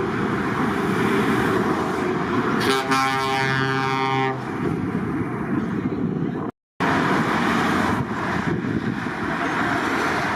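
A passing truck's air horn sounds once for about a second and a half, its pitch sliding down slightly, over the steady noise of truck engines and traffic. The sound drops out completely for a moment a little past the middle.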